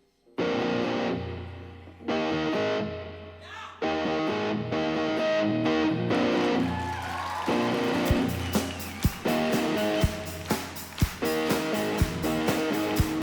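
A rock band opens its song with distorted electric guitar chords, each struck and left ringing for about two seconds. About eight seconds in, a steady drum beat comes in under the guitar.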